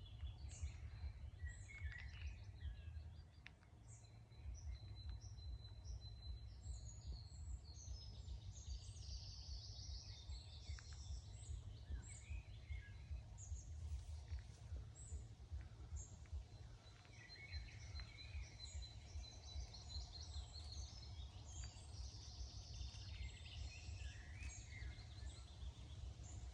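Several wild birds singing and calling in a forest dawn chorus, with short chirps, trills and a few held high notes, over a steady low rumble.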